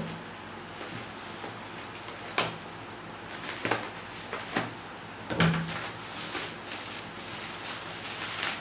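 A parcel wrapped in bubble wrap being handled and turned over: scattered rustles, clicks and light knocks, with the loudest knock about five and a half seconds in.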